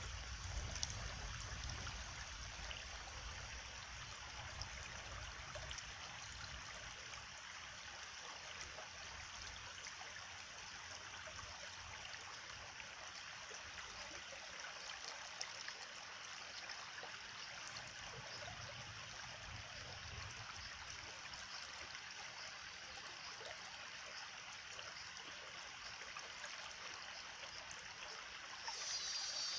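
Stream water flowing and trickling steadily, an even rushing hiss with some low rumble at times. Just before the end a louder, higher hiss comes in suddenly.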